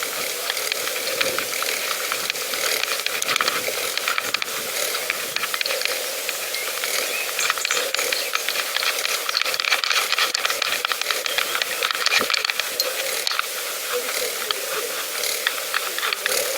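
Pedal bicycle in motion: a steady hiss of tyres and passing air, dotted with rapid ticking and rattling from the chain and freewheel.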